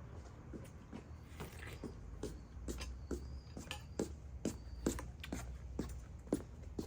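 A run of light, irregular clicks and taps, two or three a second, over a low steady hum.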